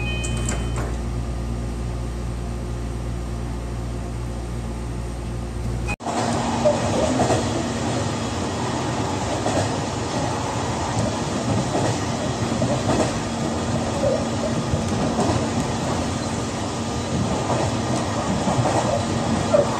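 Inside the cabin of a JR Kyushu BEC819 battery electric train: a steady low hum with a brief two-note chime at the very start, then from about six seconds in the rumble and clatter of the wheels and rails as the train runs on battery power.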